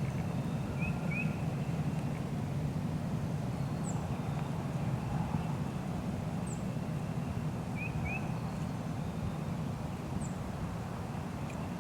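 Steady low rumble outdoors, with faint small birds calling over it: a quick pair of chirps about a second in and again about eight seconds in, and a few thin, very high single notes.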